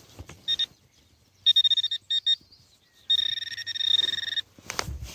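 A metal-detecting pinpointer sounding a fixed-pitch electronic tone in bursts: short blips, a buzzing burst, then a longer steady tone of about a second and a half as it closes on a metal target in soil spread on a cloth. Scraping of soil and handling follow near the end.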